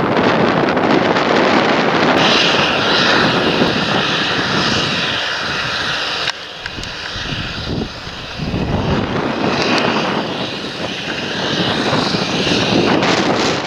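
John Deere tractor engine running in the field, with a high hiss that comes in about two seconds in and fades near the end.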